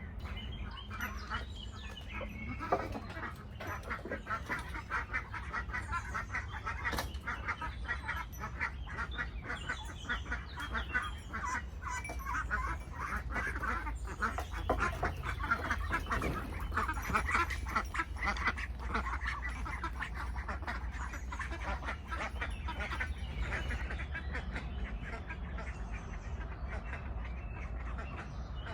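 Domestic ducks quacking and chattering, many rapid short calls overlapping.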